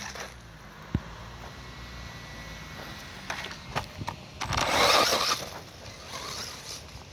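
A 4S electric RC truggy driven hard on dirt. There is a sharp click about a second in, and a louder rush of tire and dirt noise about four and a half seconds in that lasts about a second.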